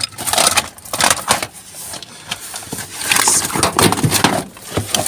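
Rummaging through rubbish in a dumpster: irregular rustling and clattering of plastic items and bags being pushed aside and handled, with many short knocks and clicks.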